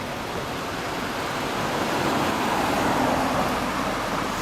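A passing vehicle: its road noise swells to a peak about three seconds in, then fades.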